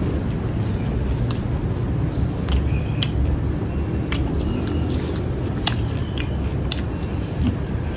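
Close-miked chewing of a mouthful of raw water mimosa stems, with crisp crunching clicks about once a second. A steady low rumble runs underneath.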